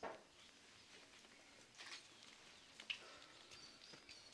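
Near silence: faint outdoor ambience with thin, distant bird chirps and a couple of soft knocks.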